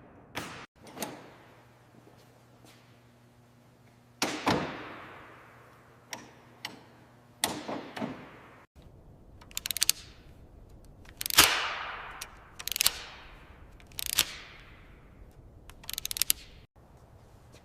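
Tools knocking and clanking on metal parts, a dozen or so sharp strikes, each ringing out briefly, with a few quick runs of rapid taps. The sound breaks off abruptly a few times where clips are cut together.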